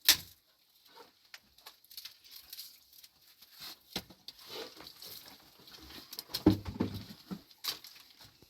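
Irregular small clicks and knocks, like objects being handled. There is one sharp, loud click at the start and a busier cluster of knocks about six and a half seconds in.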